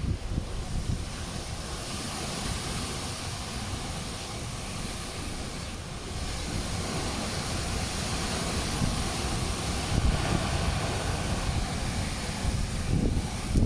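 Storm wind gusting hard and buffeting the microphone, over a steady hiss, with the gusts growing stronger in the last few seconds.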